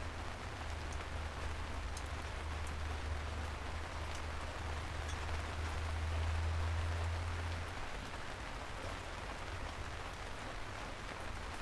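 Steady rain falling, an even hiss with scattered individual drop ticks. A low rumble runs underneath and stops abruptly about two-thirds of the way through.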